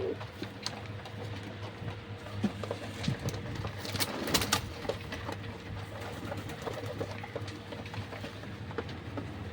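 Domestic pigeons cooing, with scattered short clicks and a burst of sharper clicks and rustling about four seconds in, over a steady low hum.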